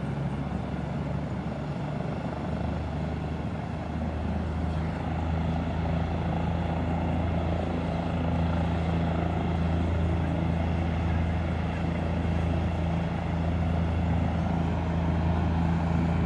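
Air-ambulance helicopter running on the ground, its engine and rotors making a steady low drone that grows louder about four seconds in.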